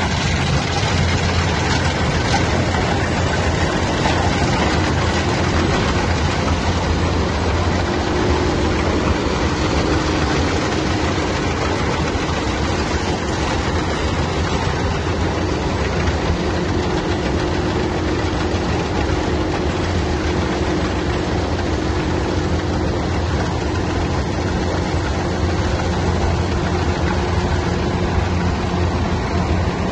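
Heavy machine engine running steadily with a deep, constant hum and a broad mechanical rumble, a faint steady whine coming and going in the middle.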